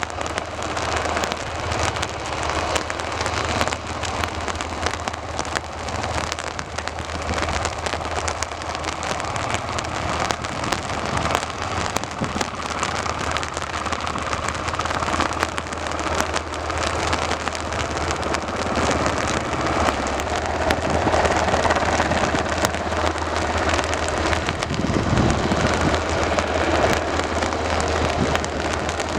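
Steady rain falling on hard surfaces close to the microphone, with many small drop impacts and a steady low hum beneath, growing somewhat louder in the second half.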